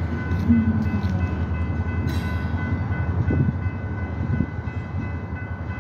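Norfolk Southern diesel switcher locomotive rumbling past a grade crossing, a steady low drone, with the crossing bell's constant high ringing tones over it. There is a brief click about two seconds in.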